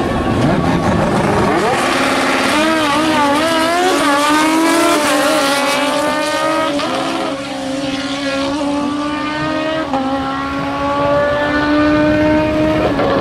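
A drag racer's engine is revved in wavering blips, then climbs steadily in pitch under hard acceleration. The pitch drops sharply at upshifts about 7 and 10 seconds in.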